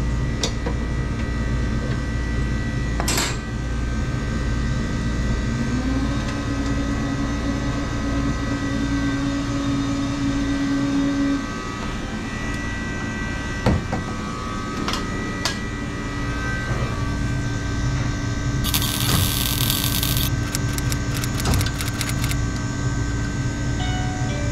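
Steady low machinery hum from refrigeration equipment, with scattered metallic clicks and knocks as refrigerant hoses and panels are handled with tools. A short burst of hiss comes about nineteen seconds in, followed by a quick run of clicks.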